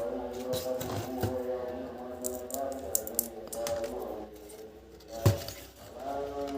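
Small clicks and taps of toy puzzle pieces being handled and fitted together, with one sharper knock a little past five seconds in, over steady background music.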